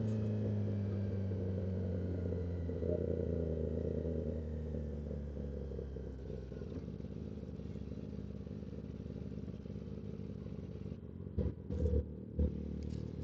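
Motorcycle engine at low revs, its pitch easing down over the first few seconds as the bike slows, then ticking over steadily. A few sharp knocks come about eleven to twelve seconds in.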